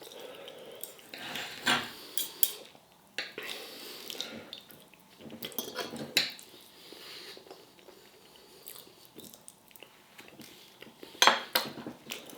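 Knife and fork clinking and scraping on a plate while eating: a scatter of short clicks and scrapes with quiet gaps between them, the loudest clatter near the end.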